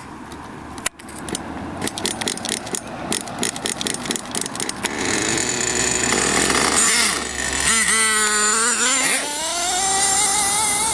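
Small nitro engine of an RC truck sputtering and popping irregularly as it catches, then running steadily as it warms up. Near the end its pitch wavers and then climbs steadily.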